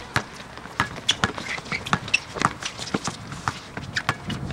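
Players running and moving about during a ball game: a rapid, irregular string of sharp footfalls, taps and knocks.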